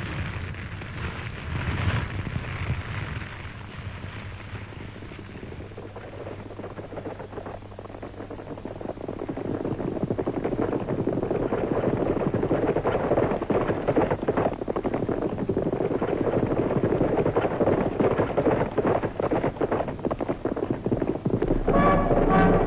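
A dense clattering, rattling noise that dies down early, then swells steadily louder, with brass music starting up near the end.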